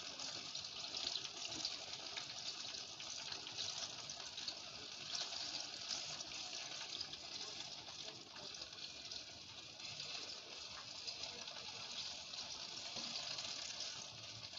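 Battered saba banana fritters frying in hot cooking oil in a pan: a steady, continuous sizzling hiss.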